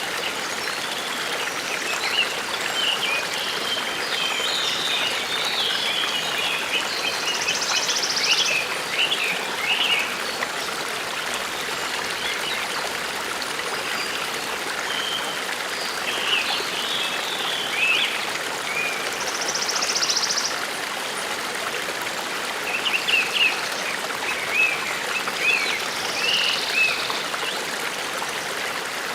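Forest stream babbling steadily, with small birds chirping now and then over the water.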